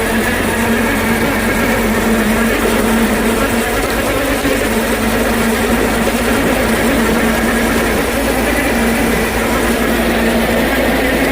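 1928 Ford Model A's four-cylinder engine running steadily while driving, a constant drone over road noise.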